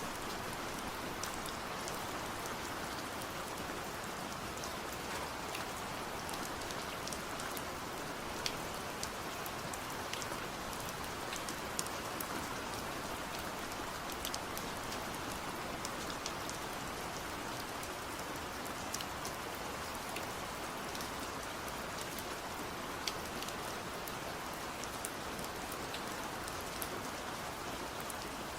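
Steady rain falling, an even hiss with many separate drops ticking sharply on a nearby surface.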